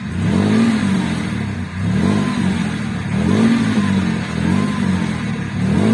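Off-road vehicle's engine revving up and falling back about five times as the driver tries to drive a vehicle that is stuck and hung up on its underside out of a creek.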